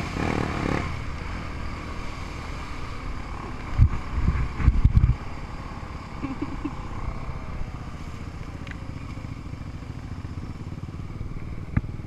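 Small off-road engine of an ATV or dirt bike running steadily, with a few loud low thuds about four to five seconds in.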